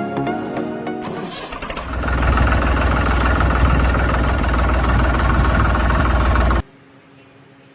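Music gives way to an engine being cranked and catching, then running steadily with a deep low sound. The engine sound cuts off suddenly near the end, leaving a faint hiss.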